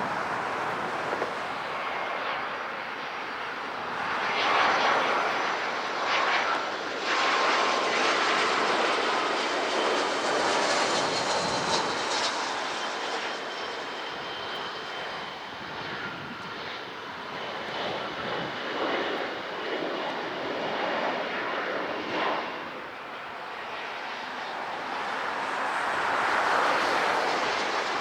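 Jet airliner engines heard as a steady rushing noise with faint high whining tones, swelling and easing in loudness several times.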